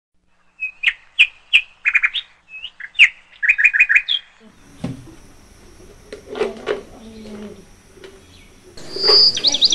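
Small birds chirping: quick runs of short, high chirps through the first four seconds, then a quieter stretch, and a fast, high trill of repeated notes near the end.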